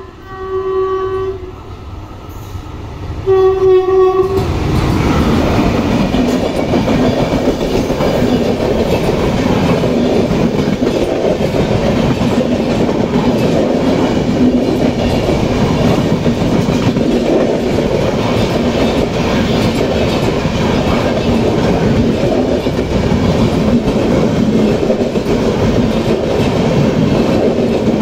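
Indian Railways WAP-5 electric locomotive sounding its horn twice, once at the start and again about three seconds in. The train then passes close by, a loud, steady rumble of coaches with wheel clatter on the rails.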